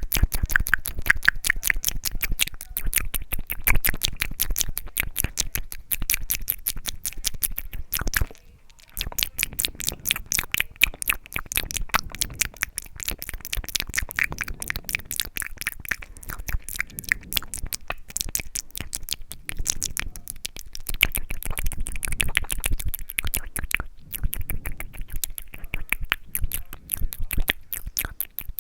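ASMR mouth sounds: rapid wet clicks, smacks and tongue pops made close to the microphone, with a brief pause about eight seconds in.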